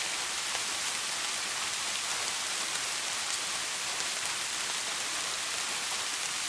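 Steady rain falling, an even hiss with faint scattered drop ticks; no thunder is heard.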